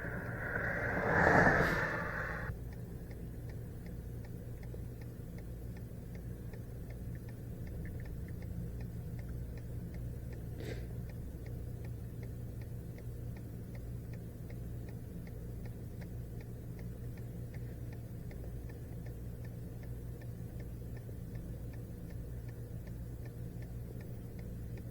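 Car cabin while driving: steady low road and engine hum with a faint, regular ticking throughout. A louder rushing swell in the first couple of seconds cuts off abruptly.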